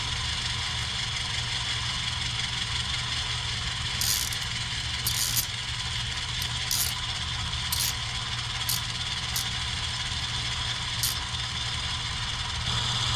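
HO-scale model locomotive running at a steady low engine hum. About seven short clicks and rattles come from the middle on.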